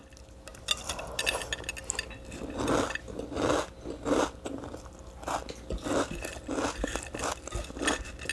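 Close-miked chewing of a mouthful of food, smacking and crunching in a steady rhythm of about one and a half chews a second.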